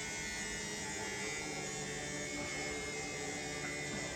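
Indesit My Time EWD61052 washing machine running, a steady motor hum with a whine of several held tones.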